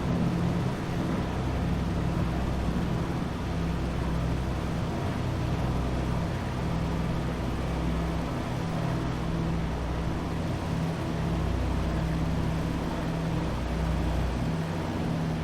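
Twin radial piston engines of a Douglas DC-3 running steadily in a low, even drone.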